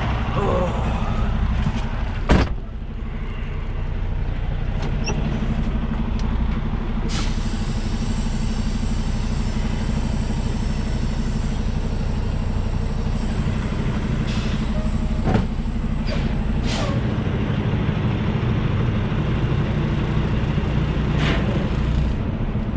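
Semi-truck's diesel engine running steadily in the cab while the tractor is manoeuvred to hook up to a trailer. There is one sharp clunk about two seconds in and a few lighter clicks later.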